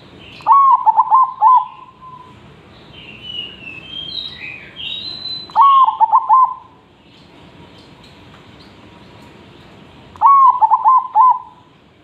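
Zebra dove (perkutut) singing three times, about five seconds apart: each phrase opens with a rising note and runs on into a quick string of rolling coos. Other small birds chirp at a higher pitch between the first two phrases.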